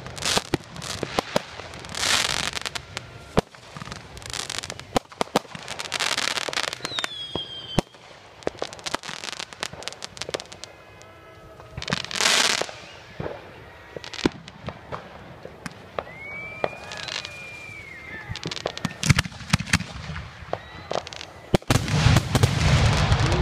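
Fireworks display: rapid crackling pops and sharp bangs throughout, with several hissing whooshes. A whistling shell falls in pitch about a third of the way in, another rises and falls past the middle, and heavy low booms come near the end.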